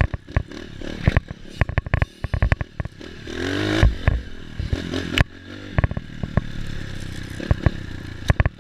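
Dirt bike engine running while riding over rough ground, with frequent sharp clicks and clattering knocks. About three seconds in, the engine revs up briefly with a rising pitch.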